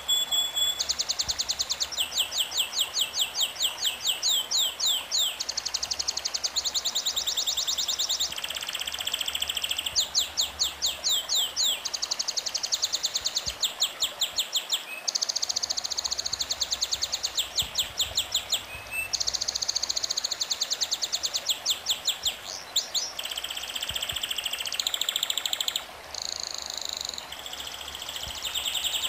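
Songbird singing: fast trills of high, quickly repeated chirping notes in phrases a second or two long, separated by short pauses.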